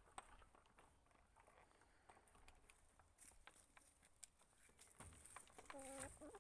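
Faint chicken sounds: scattered light ticks and rustles as the birds move about, and one short chicken call near the end.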